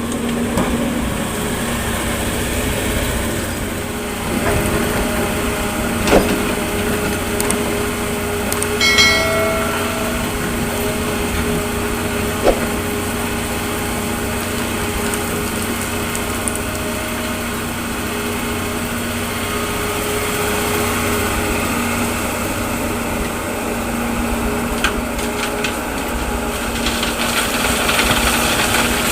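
Diesel engines of an excavator and dump truck running steadily while sand is loaded, with two sharp knocks and a brief squeal about nine seconds in.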